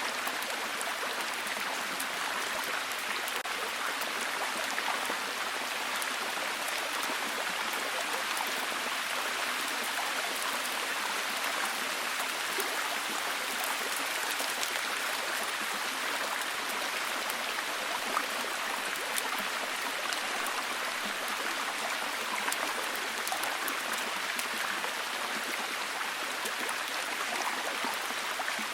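Steady, heavy rain falling, an even hiss of dense drops with fine ticks of individual drops scattered through it.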